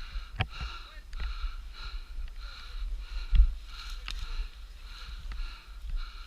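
A person breathing hard and fast, a puff about every 0.6 s, over a steady low rumble; one sharp thump about three and a half seconds in.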